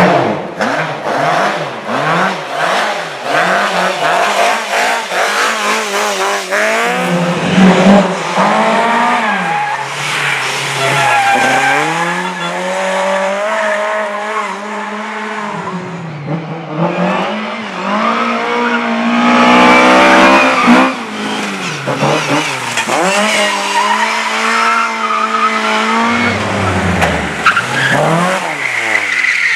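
Race car engine revving hard, its pitch climbing and dropping repeatedly through gear changes, with tyres squealing in the corners.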